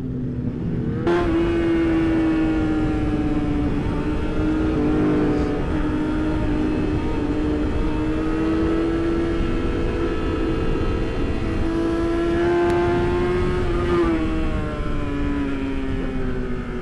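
Yamaha R6 sport motorcycle's inline-four engine held at steady high revs while riding, with heavy wind noise coming in suddenly about a second in. The engine note climbs slowly and then falls near the end.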